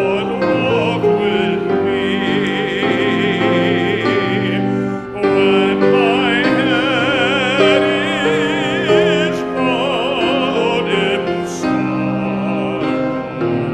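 Church music: voices singing long held notes with wide vibrato over sustained keyboard accompaniment.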